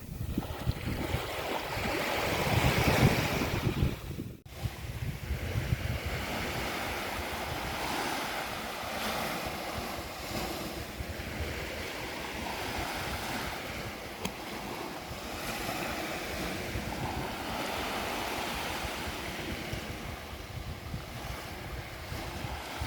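Sea waves breaking and washing on a beach, one larger surge early on followed by a steadier wash of surf, with wind buffeting the microphone.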